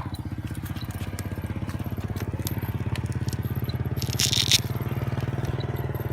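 Small electric RC helicopter (Oxy 2 with a Lynx frame) in flight: a steady motor-and-rotor hum with a fast, even pulsing chop. A short crunching noise about four seconds in is the loudest moment.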